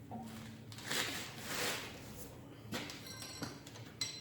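Faint scraping swishes and a few light knocks as an engine hanging on a hoist is worked down onto its motor mounts.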